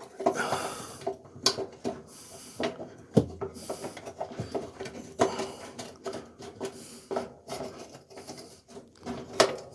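Irregular clicks, taps and rustling of hands handling and fitting the plastic parts of a washing machine's lid switch assembly back into place.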